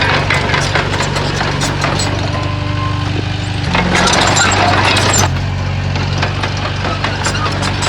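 Komatsu bulldozer's diesel engine running steadily, with clanks and rattles from the machine at work and a louder, rougher stretch about four to five seconds in.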